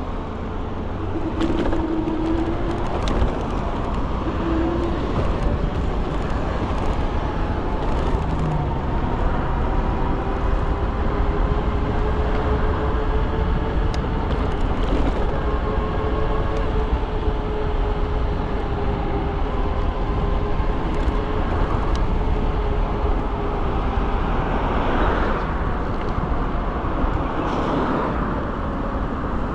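Wind rumble on the microphone and road noise while riding an iKingi S6 Pro electric scooter, with a faint steady whine through the middle stretch.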